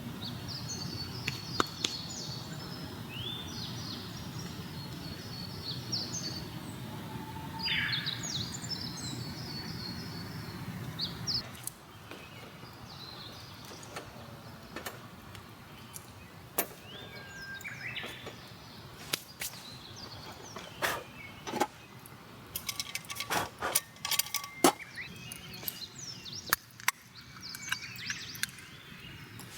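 Small wild birds chirping and twittering in short phrases over a steady low rumble, which stops abruptly about twelve seconds in. After that, many sharp, irregular clicks and cracks sound among the bird calls, growing denser toward the end.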